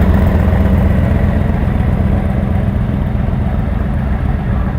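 Car engine running at low revs with a deep, steady rumble, slowly fading toward the end.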